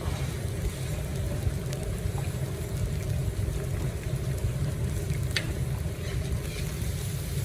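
A steady low rumble, with a few short clicks and a sharper clink about five and a half seconds in.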